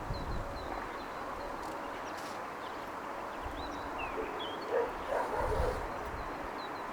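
Steady outdoor city ambience with faint, high bird chirps. About five seconds in, a dog barks in a short run of several barks.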